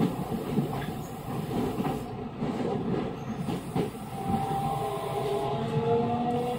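Onboard running sound of an equipment-renewed Osaka Metro 66 series electric train: wheel and track rumble with a few clacks. About four seconds in, a whine from the traction motors sets in and rises slowly in pitch as the train gains speed.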